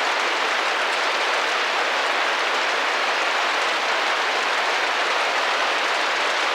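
Rain drumming gently against a glass window: a steady, even patter of drops that does not change.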